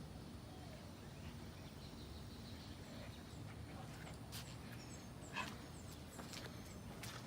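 Faint outdoor background: a low steady rumble, with a few short high chirps and scattered clicks between about four and seven seconds in.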